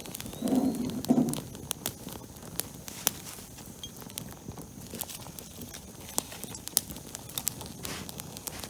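Newly lit campfire of pine needles crackling, with sharp irregular snaps and pops as it catches. A brief low voice-like sound comes about half a second in.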